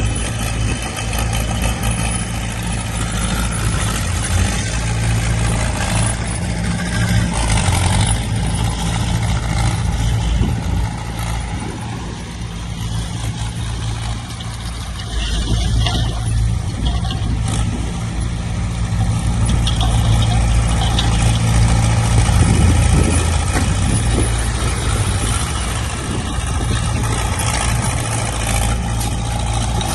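Heavy diesel earthmoving machinery, dump trucks and a bulldozer, running continuously, its engine pitch shifting now and then, easing a little about twelve seconds in and growing louder in the second half.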